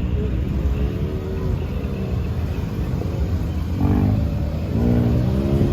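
Car engines rumbling as they pull away, with an engine's pitch wavering up and down and growing louder about four seconds in.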